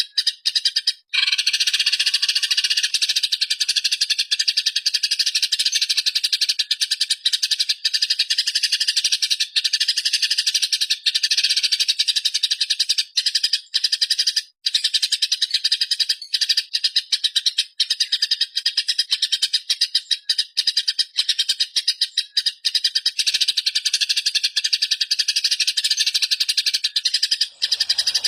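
Songbird master recording: a continuous, rapid, buzzing chatter of bird song in high 'tembakan' bursts, with short breaks about a second in and around halfway through.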